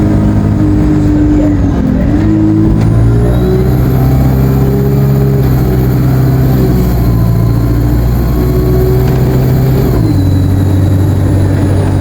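ADL Enviro 200 bus engine under way through its Allison automatic gearbox, with a high turbo whine. The whine climbs about two to three seconds in as the bus pulls, holds steady, then falls away near the end as the engine note drops.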